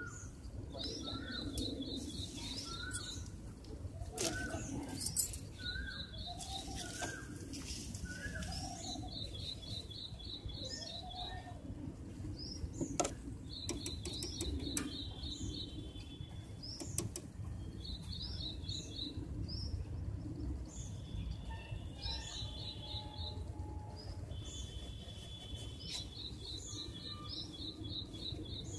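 Birds chirping in the background: short, fast trills of repeated high notes every few seconds, with smaller chirps between, over a low steady hum and a few sharp clicks.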